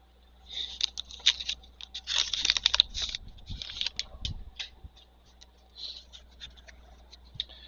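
Trading cards and their pack wrapper being handled: a quick run of crinkling, rustling and scraping, densest in the first few seconds, then a few fainter rustles.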